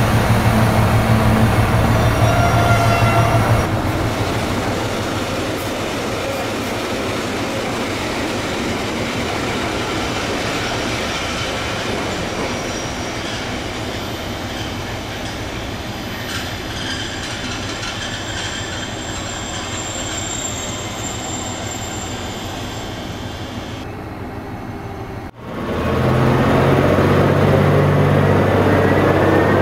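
Rhaetian Railway station sounds. An idling diesel shunting tractor gives a steady low hum, then a train rolls through with faint wheel squeal. After a sudden cut, a louder steady hum with a rising whine comes from a red Ge 4/4 II electric locomotive pulling in.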